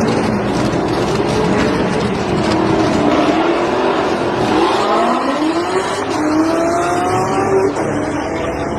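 Car engines accelerating hard at full throttle, the pitch climbing and dropping back at upshifts about halfway through and again near the end.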